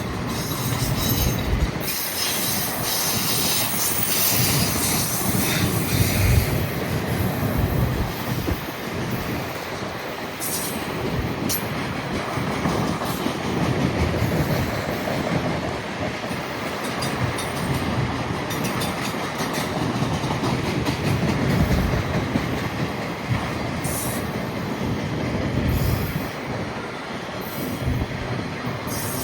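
Freight train of autorack cars rolling past, steel wheels clacking over the rail joints with some wheel squeal.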